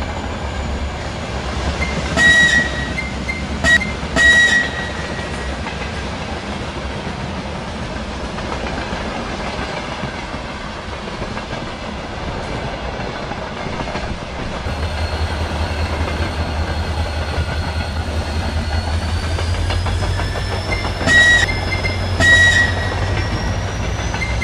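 High-speed train running with a steady low rumble that grows heavier partway through. Its horn gives three short blasts about two seconds in and two more near the end. A slowly rising whine comes in over the last few seconds.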